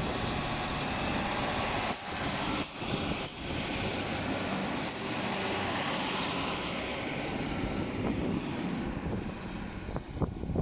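A train passing close by: a steady rush of wheel and running noise with a few knocks a couple of seconds in, dying away near the end.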